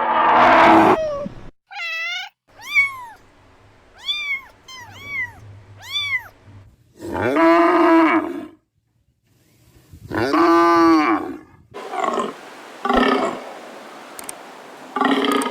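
A string of different animal calls in quick succession: a roar at the start, then several short rising-and-falling cat meows, followed by two longer drawn-out calls and a few shorter calls near the end.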